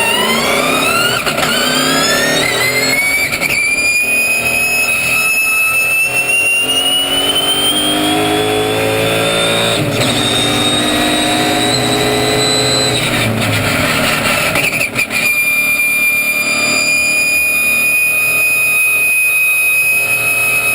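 Race car's twin-turbo Audi V8 engine and drivetrain under hard acceleration, the note climbing steadily for about thirteen seconds, then dropping away. After a brief break, a steady high note holds for the last few seconds.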